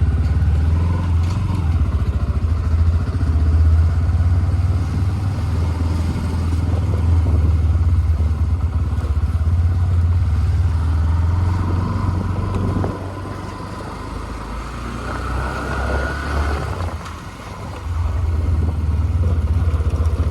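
Bajaj motorcycle engine running steadily while riding. It eases off for a few seconds past the middle, then picks up again near the end.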